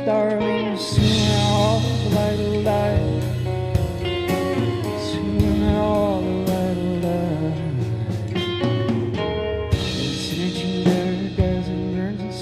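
Live band music without sung words: guitar, baritone guitar and a drum kit playing a slow instrumental passage, with cymbal crashes about a second in and again near the ten-second mark.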